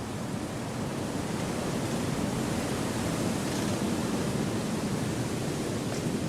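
Wind rushing steadily through forest trees, an even, soft noise that swells slightly over the first few seconds.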